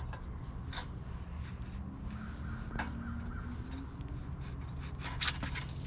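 Steel tubes of a pet-shelter frame being worked together by hand: a few sharp metallic clicks and knocks, the loudest about five seconds in, with a faint drawn-out scrape in the middle, over a steady low rumble of wind.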